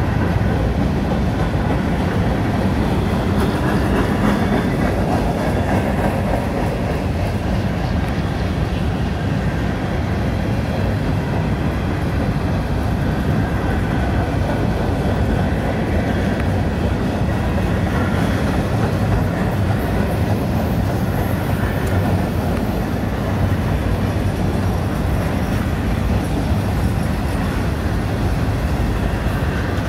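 Covered hopper cars of a freight train rolling past on the rails, a steady, continuous wheel-on-rail noise.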